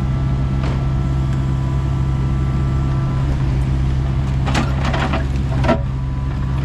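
Kubota excavator's diesel engine running steadily under load, with a thin steady whine for the first three seconds. A few knocks and scrapes of concrete and rebar come around five seconds in, the loudest just before six seconds, as the pool wall is worked loose.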